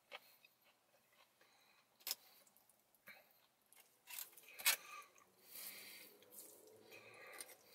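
A man chewing a mouthful of pasta with his mouth closed: faint wet mouth sounds and lip smacks, with a few sharp clicks, the loudest a little past halfway.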